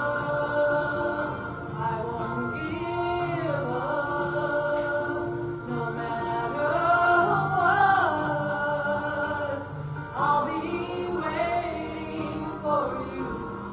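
A woman singing a country ballad over instrumental backing, with long held notes that bend in pitch.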